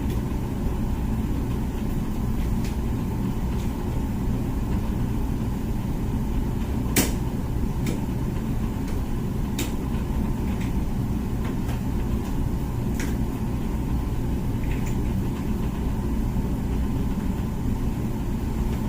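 Comfee dishwasher running a wash cycle: a steady low hum and rumble, with a few sharp clicks or knocks scattered through, the loudest about seven seconds in.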